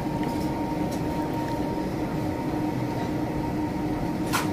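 Steady running noise inside a passenger sleeper carriage as the train pulls out of a station, with a faint steady hum over it. There is a single sharp click near the end.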